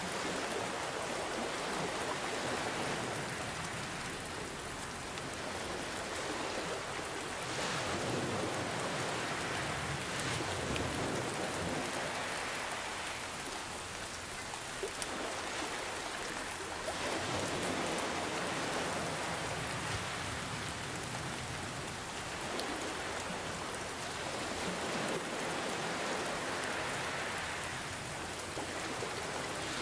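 Steady rain, with ocean waves washing in and out in slow swells every few seconds.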